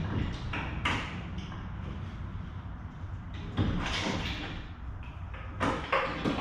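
A few sharp knocks and scrapes over a steady low hum.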